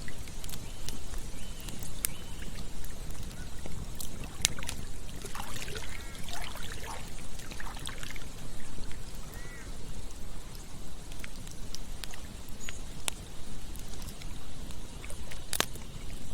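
Campfire crackling with a few sharp pops over a steady low rush of running water. A cluster of short chirps that bend up and down comes about five to eight seconds in, and one more shortly after.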